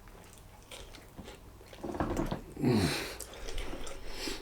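Faint small handling and mouth noises, then about two and a half seconds in a short, low vocal sound that drops sharply in pitch.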